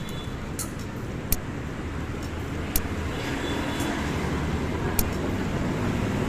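Street traffic running by, a steady low rumble with an engine hum that builds toward the end, broken by a few short sharp clicks.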